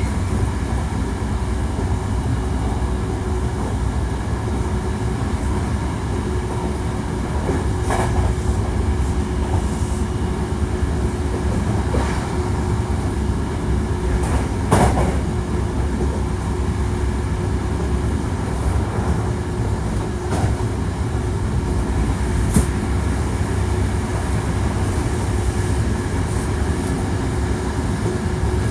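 Hankyu 1300 series electric train running at speed: a steady low rumble of wheels on rail with a steady hum, and a few sharp clicks, the loudest about 15 s in.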